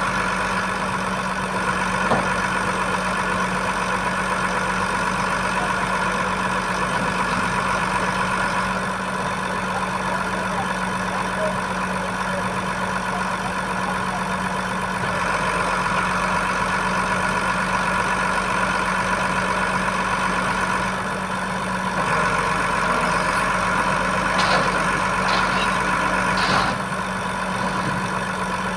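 Iveco boom truck's diesel engine running steadily at idle, with a few short knocks near the end.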